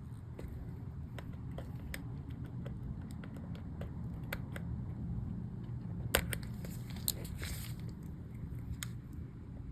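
Small plastic clicks and taps of MacBook keycaps and their scissor mechanisms being handled and pressed into place. The clicks come scattered, with a louder cluster about six to seven seconds in, over a steady low hum.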